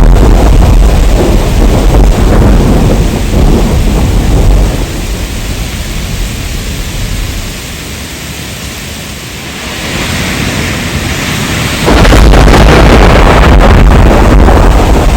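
Heavy rain with deep thunder rumbling. The rumble fades about five seconds in, leaving a quieter rain hiss, then comes back loud all at once near the end.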